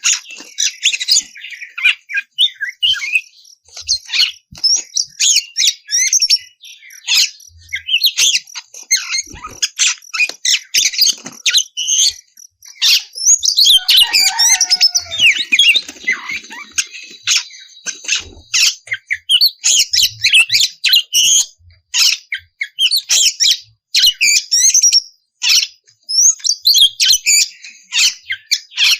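Oriental magpie-robin (kacer) singing continuously in rapid, varied phrases of high whistles and chirps with only short gaps. About halfway through comes a lower, sliding call.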